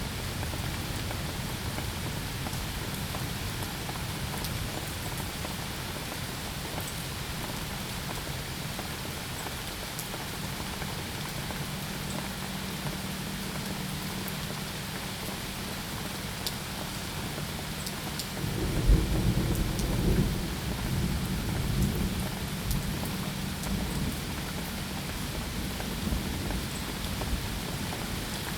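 Steady rain falling, with a roll of thunder about two-thirds of the way in that surges loud and rumbles away over several seconds.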